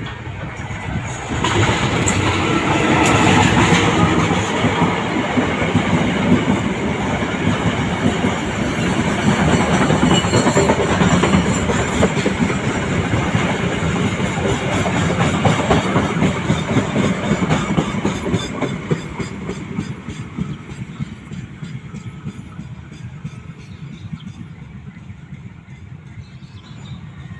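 Diesel-hauled passenger train pulling into a station, its locomotive and carriages rolling past with wheels clacking over the rail joints. It grows loud about a second and a half in and fades away over the last third.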